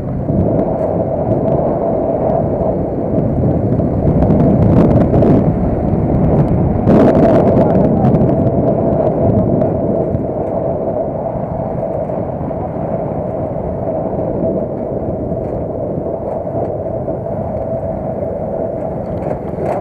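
Car on the move: steady engine and road noise with a constant whine. It swells louder for a few seconds about four to eight seconds in, then settles.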